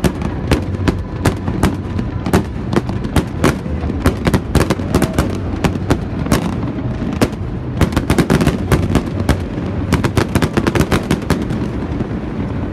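Fireworks display: a rapid, irregular string of sharp bangs from bursting shells over a steady low rumble, thinning out near the end.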